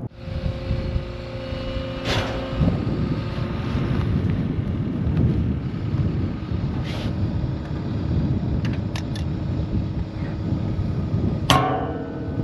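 Bobcat skid-steer loader engine running steadily, with a few metallic knocks and clanks from the post-pulling work. The loudest clank, near the end, rings briefly.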